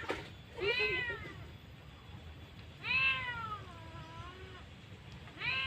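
Three drawn-out, meow-like animal calls, each rising and then falling in pitch. The middle call is the longest and loudest, sliding down and wavering at its end.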